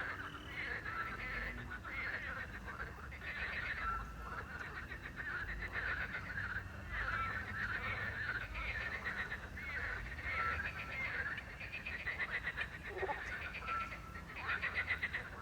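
Night chorus of frogs croaking by a river in overlapping, rattling calls. A short whistled note repeats every few seconds over the chorus.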